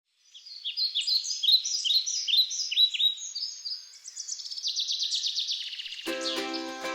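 Songbird chirping: a run of quick, high downward-sliding chirps, then a rapid trill of repeated notes. Music starts about six seconds in.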